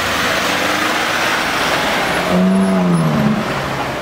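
A car driving past in traffic, with tyre and road noise, then an engine note that swells about two seconds in and falls in pitch as the car goes by.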